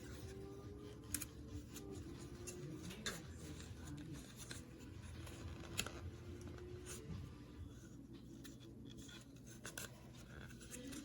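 Faint handling noises in a small room, with three light, sharp clicks about one, three and six seconds in.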